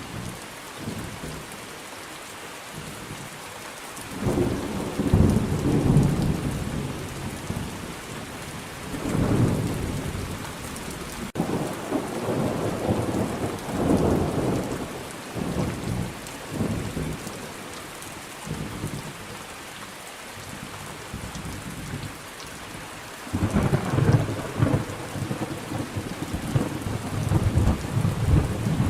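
Thunderstorm: steady rain with repeated rolls of thunder. Rumbles swell and fade about four seconds in, again around nine seconds, several times through the middle, and a heavier roll builds near the end.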